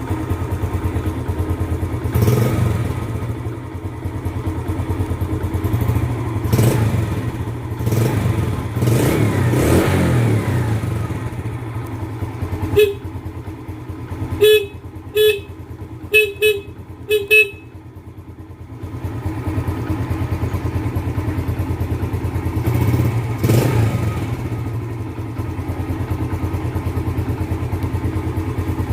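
2008 Yamaha Jupiter Z's four-stroke single-cylinder engine idling, with a few short throttle blips. Around the middle the horn sounds in about six short beeps.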